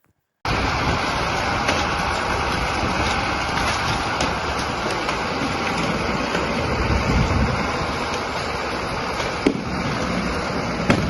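Strong wind rushing over the microphone outdoors: a loud, steady rush that starts suddenly about half a second in, with a few small knocks.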